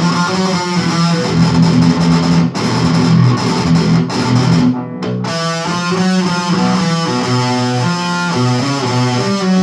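Electric guitar through distortion playing a heavy metal riff of changing notes, breaking off briefly about five seconds in and then going on.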